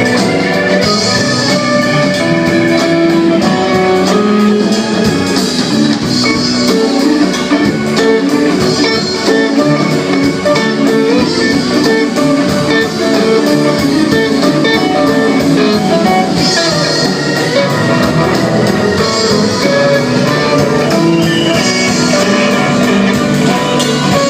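A live band playing: electric guitar lines over a drum kit keeping a steady beat on the cymbals.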